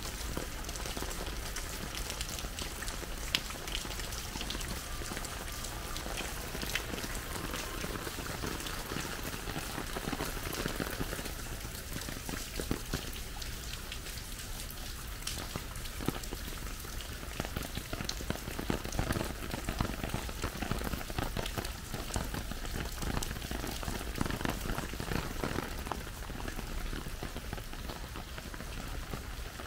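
Steady rain falling, with many separate drop hits heard against a continuous wash of noise.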